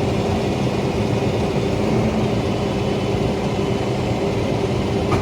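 Steady drone of a vehicle engine and road noise, even throughout.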